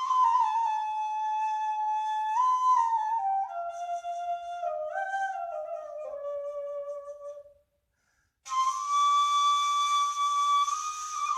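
Dilsiz kaval, a Turkish end-blown rim flute with no fipple, playing a slow improvised melody. One phrase steps down in pitch and fades out at about seven and a half seconds. After a short pause a long high note is held, then starts stepping down near the end.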